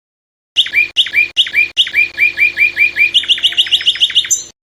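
A songbird sings a loud run of repeated down-slurred whistled notes, about four or five a second. Near the end they quicken into a faster trill, then cut off abruptly.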